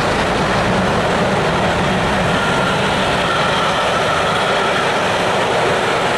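Passenger coaches of a steam-hauled train rolling past, a steady rumble of wheels on the rails. A faint thin whine rises out of it for a few seconds in the middle.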